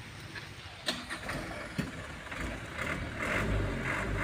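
Truck's diesel engine running and growing louder from about two seconds in, after two sharp knocks.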